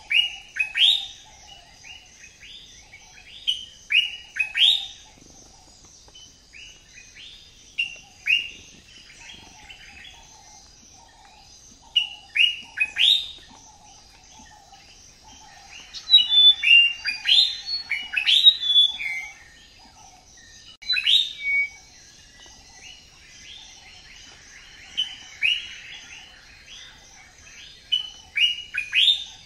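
Birds chirping in the trees: many short, sharp chirps in loose runs, densest about halfway through, over a steady high-pitched buzz.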